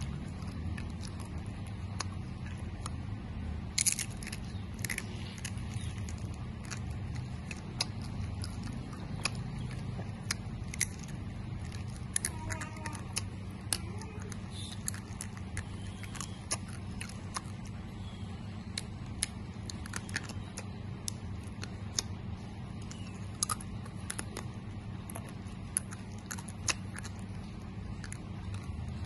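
A person chewing dried banana with the mouth open, close to the microphone: scattered wet clicks and smacks of the lips and teeth, a few louder ones about four and five seconds in, over a steady low hum.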